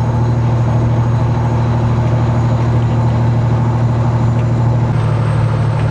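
Semi truck's diesel engine running steadily while driving, heard from inside the cab as a loud, even drone; the engine note shifts slightly about five seconds in.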